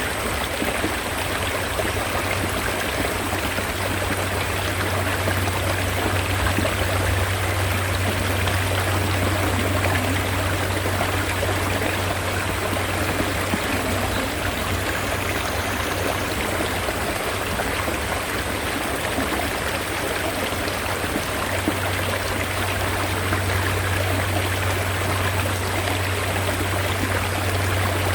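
Mountain stream water running steadily, an even rushing with a low rumble underneath.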